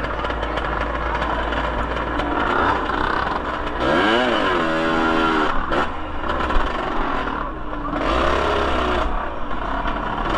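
A motorcycle engine revs up about four seconds in, its pitch rising steeply and then held high for about a second, with a weaker rev near the end, over crowd chatter and a steady low rumble.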